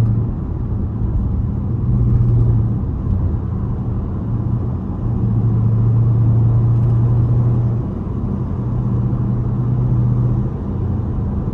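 Straight-piped Dodge Durango's exhaust droning steadily while driving, swelling louder and easing back several times as the throttle changes.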